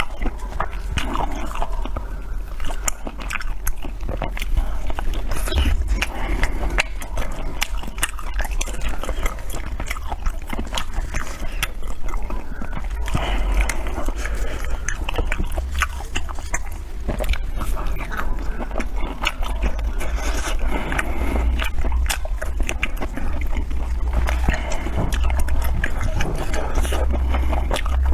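Close-miked eating: wet chewing, biting and lip smacks, many small clicks and smacks over a steady low hum.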